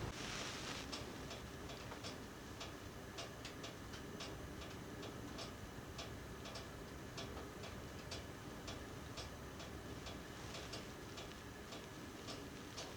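Faint, light ticking clicks, roughly two to four a second and slightly irregular, over a low steady background hiss.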